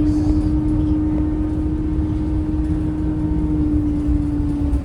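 Scania K230UB Euro V bus running: a continuous low engine and road rumble under a steady whine that dips slightly in pitch near the end.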